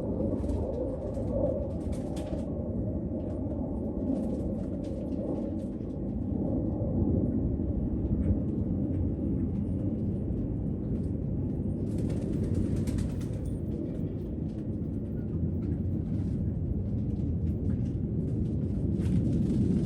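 Pigeons with a few short bursts of rustling or wing-flapping, over a steady low rumble.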